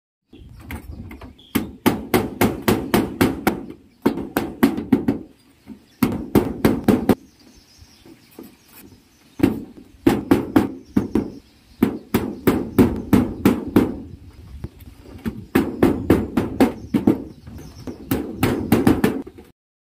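Hammer driving nails to fasten corrugated zinc roofing sheets to a wooden frame. It strikes in runs of quick blows, about four a second, with short pauses between runs.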